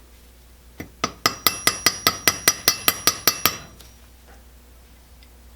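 Rapid metal-on-metal tapping on a small Coleman stove part: about a dozen light, ringing taps at roughly five a second, from about a second in to about three and a half seconds.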